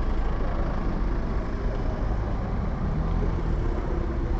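Motor vehicle engines running in road traffic: a steady low rumble with no distinct events.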